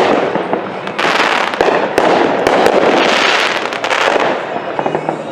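Consumer fireworks going off: a few sharp bangs over a dense, continuous crackle of rapid pops. The crackle thins into scattered small pops near the end.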